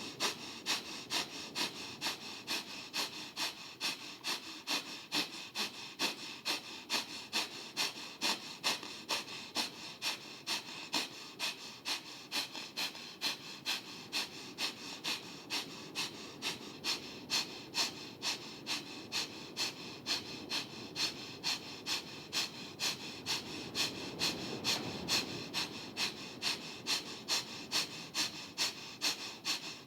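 Breath of Fire, the Kundalini yoga pranayama: rapid, even, pumping breaths in and out through the nose. It comes as a steady rhythm of about two sniff-like strokes a second.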